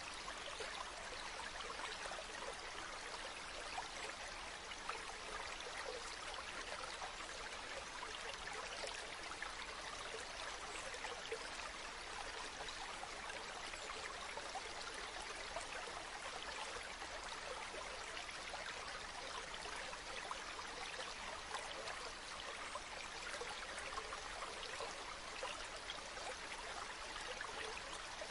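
Running water flowing steadily, an even rushing with fine splashing and trickling throughout.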